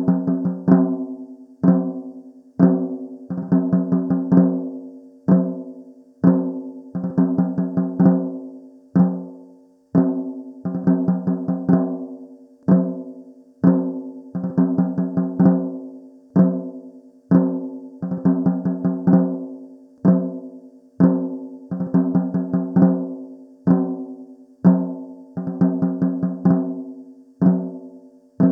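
A low-pitched drum played in a steady repeating rhythm, single strokes alternating with quick rolls, each hit ringing at the same low pitch and dying away.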